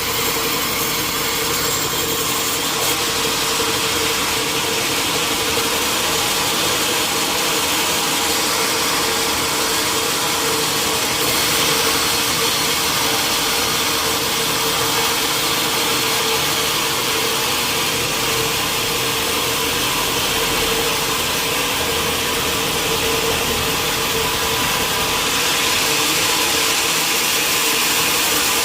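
Sawmill machinery running steadily: a constant drone with a steady hum under a loud hiss, unbroken throughout.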